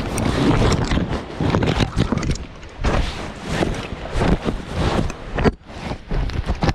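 Gale-force mountain wind buffeting the microphone in loud, irregular gusts, with short rustles and knocks of handling mixed in.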